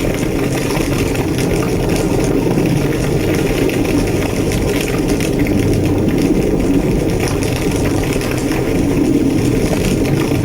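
Burning building: a large fire with a steady low roar and scattered small crackles.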